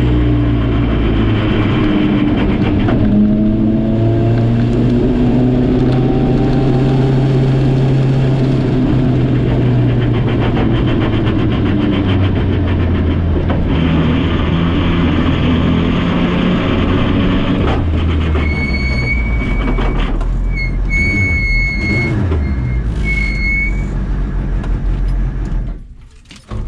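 Suzuki Hayabusa (GSX1300R) inline-four motorcycle engine in a Toyota KP61 Starlet, heard from inside the car, pulling hard under full throttle. It rises in pitch and drops back at each gear change, several times. A high electronic beep sounds repeatedly about two-thirds of the way in, and the sound falls away just before the end.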